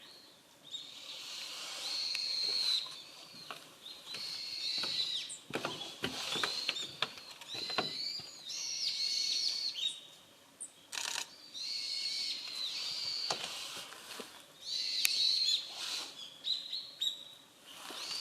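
Small wild birds giving high, thin calls again and again in short groups, with brief rustles and clicks in between.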